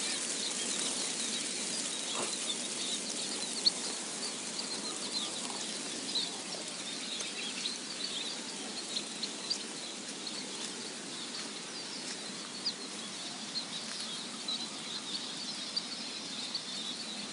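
Steady outdoor rustle-like noise dotted with many short, high chirps and a few sharp ticks.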